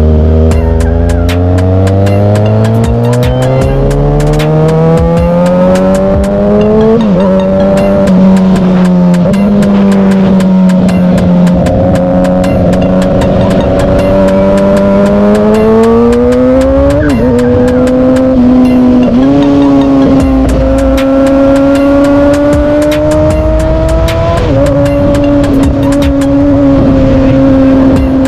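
Motorcycle engine under way, its note climbing steadily as it accelerates. The pitch drops sharply about seven seconds in and again after about seventeen seconds, as at gear changes, and otherwise runs at a fairly even cruising note.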